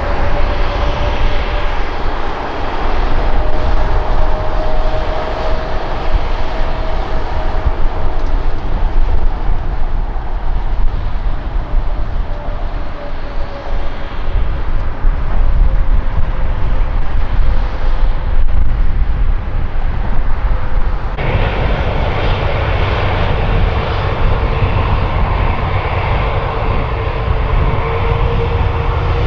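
Jet aircraft engines running loud, a deep rumble with a steady whine that slowly falls in pitch. About two-thirds of the way through the sound changes abruptly to another jet's rumble and whine, which slowly rises in pitch.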